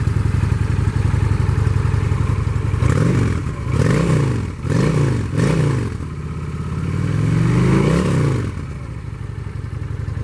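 2009 Honda VT750 Shadow's V-twin on its stock exhaust, idling, then blipped four times in quick succession about three seconds in. It is then revved once more slowly, and settles back to idle near the end.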